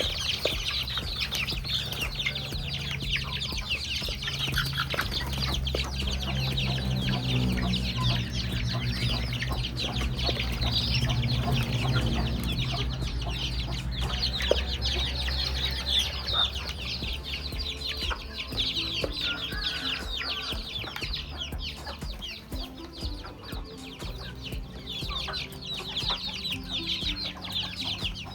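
Chickens clucking as they forage. Dense high chirping runs throughout, and a low hum is heard through the first half or so.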